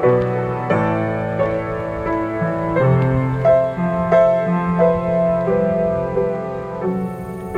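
Solo piano playing a slow piece of held chords and melody notes, the notes changing about once a second.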